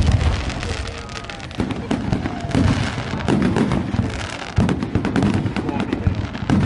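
Fireworks going off: dense, rapid crackling of firecrackers with repeated deep booms of bursting shells, the loudest right at the start and others every second or so.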